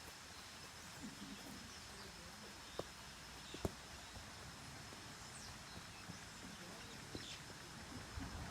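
Quiet outdoor ambience with two sharp knocks of a football being touched and struck on wet grass, a bit under a second apart about three seconds in, and a few faint bird chirps later.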